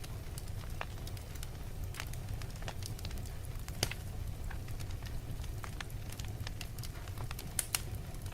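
Wood fire burning in a fireplace: a steady low rumble with irregular crackles and pops, the sharpest about four seconds in and a quick pair near the end.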